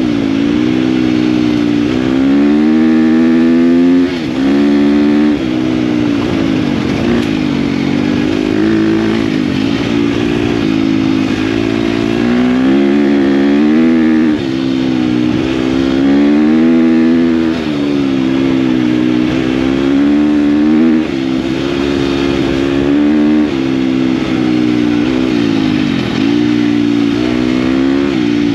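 KTM dirt bike engine under way, the revs rising and falling over and over, with brief drops in level every few seconds.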